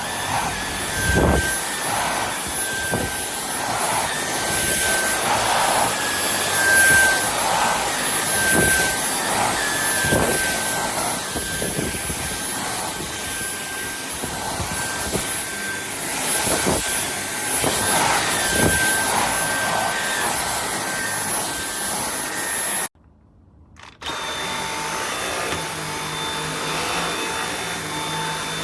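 Vacuum cleaner running with a steady high whine, with a swell of suction noise every second or so as it is pushed back and forth. Near the end it cuts out for about a second, then runs on at a different pitch.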